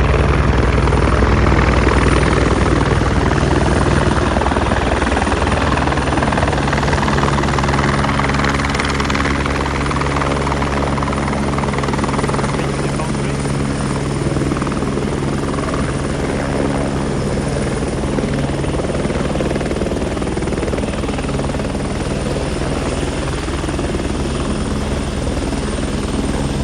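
Eurocopter AS355 Twin Squirrel twin-turbine helicopter flying close by: steady rotor noise with a thin high turbine whine above it, easing slightly in loudness.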